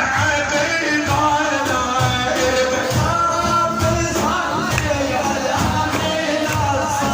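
A man singing an Arabic devotional praise song (madih) with an ornamented, wavering melody over a steady drum beat.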